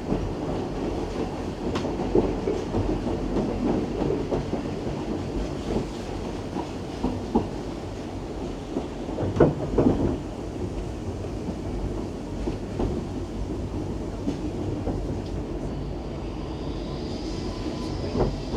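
Steam-hauled heritage train running on narrow-gauge track: a steady rumble with the clickety-clack of wheels over rail joints and a louder clatter of knocks about halfway through. A faint high wheel squeal creeps in near the end.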